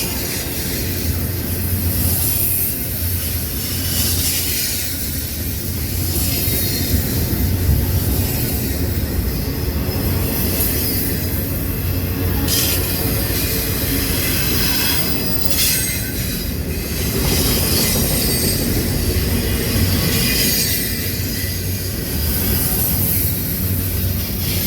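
Railroad cars rolling past with a steady low rumble and a high wheel squeal.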